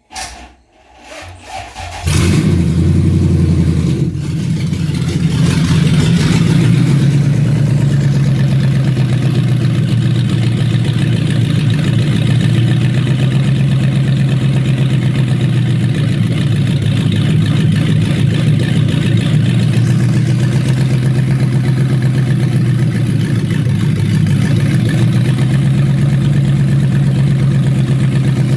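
Toyota 1UZ-FE 4.0-litre V8 being cranked in short bursts, catching about two seconds in and settling into a steady idle.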